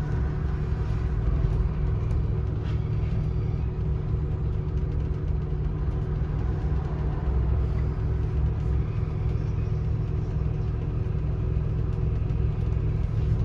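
Scania N230UD double-decker bus's five-cylinder diesel engine running steadily with a low drone, heard from inside the passenger cabin.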